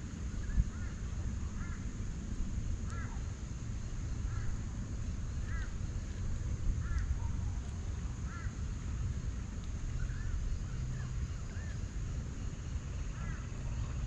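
A bird repeating a short call every second or so, over a steady low rumble.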